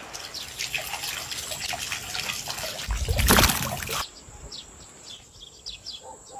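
Water trickling while small birds chirp repeatedly. About three seconds in there is a brief low rumble or bump, and about a second later the trickle cuts off suddenly while the bird chirping goes on more quietly.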